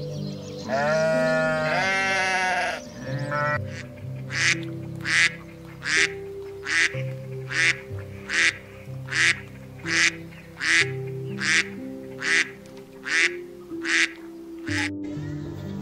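A sheep bleats twice in a long, wavering call, then a duck quacks in a steady series of about fourteen raspy quacks, roughly one every three-quarters of a second. Soft piano music plays underneath throughout.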